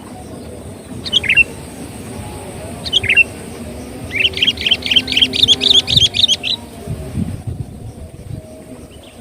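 Sooty-headed bulbul (kutilang) calling: a short falling note about a second in and another about three seconds in, then a quick run of about a dozen chirps lasting a couple of seconds.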